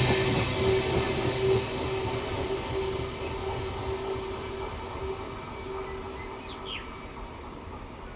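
A train's rumble fading steadily away, with a steady wheel squeal that dies out about seven seconds in. Near the end there is a brief high falling chirp.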